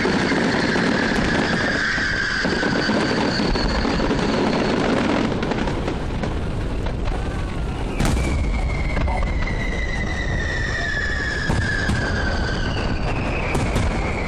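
Fireworks display: a continuous mass of shell bursts, booms and crackling, with a sharp bang about eight seconds in. Long high tones slide slowly down in pitch over it.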